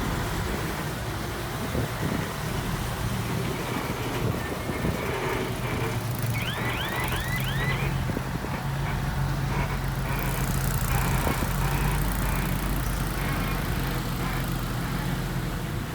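Diesel engine of heavy earthmoving machinery running steadily, with a short run of four quick high chirps about seven seconds in.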